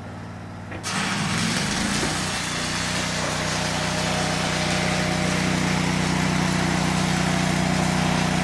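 A small engine, likely a Miller Trailblazer 302 engine-driven welder, idles, then speeds up about a second in and holds a steady run, as the welder does when an arc is struck. A steady sizzling hiss, typical of arc welding, starts at the same moment.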